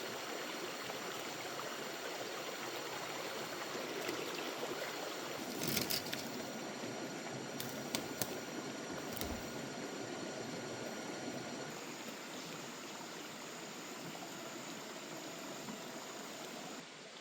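Steady rush of a flowing stream, with a few sharp clicks about halfway through. The sound drops suddenly in level near the end.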